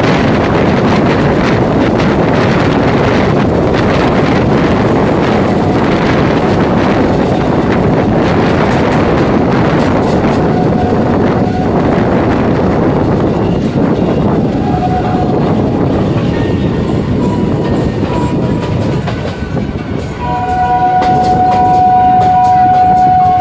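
EMU suburban train running, heard on board: a loud steady rumble of wheels and rushing air, with faint clicks from the rails. About twenty seconds in, a loud steady high tone begins and holds to the end.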